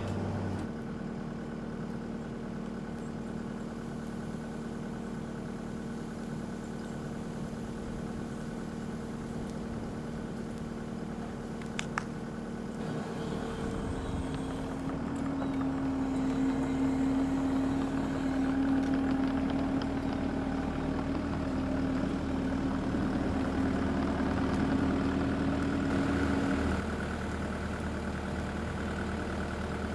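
Diesel engine of a New Holland C232 compact track loader running steadily. About halfway through it grows louder, with a stronger humming tone, then drops back to its earlier level near the end.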